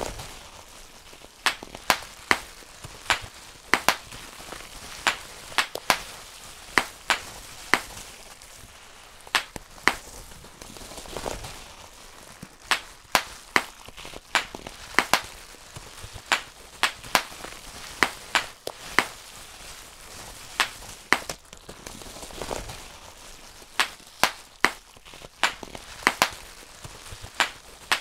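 Bubble wrap being popped by hand: sharp single pops at an uneven pace, about one or two a second, with the plastic sheet crinkling between them.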